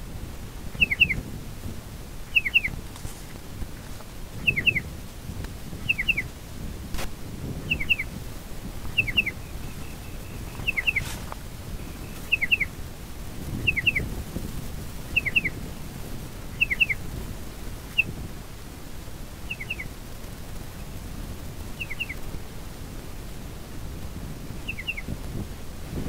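Striated pardalote calling: a short two-note call, each note a quick downward slur, repeated about every second and a half, spacing out toward the end.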